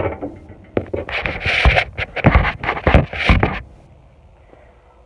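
Loud, irregular knocks and rubbing right at the microphone, handling noise as the recording phone is moved and set in place, stopping about three and a half seconds in.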